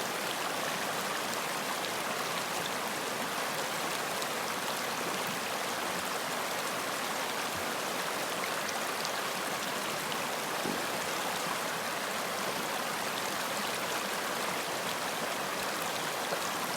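Running water: a stream flowing steadily with an even rushing sound and faint splashes.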